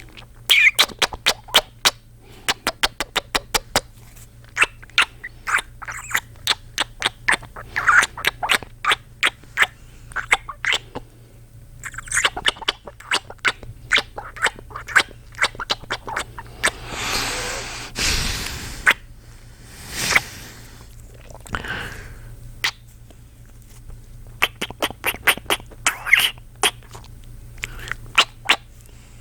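A man making close-up kissing sounds: rapid runs of wet lip smacks, with a couple of long breaths about two-thirds of the way through.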